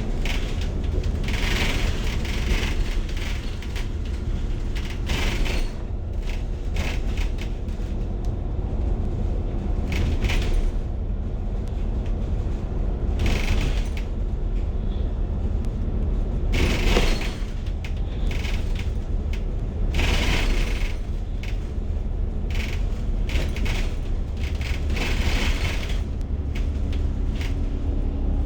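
Bus cabin noise: a steady low rumble of engine and road, with short rushing bursts every few seconds.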